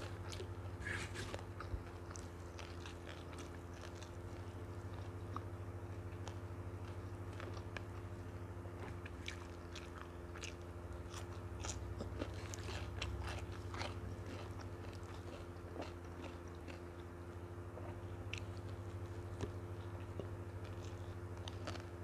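Close-miked eating: chewing and crunching mouthfuls of nasi lemak with fried noodles, with many short wet mouth clicks, over a steady low hum.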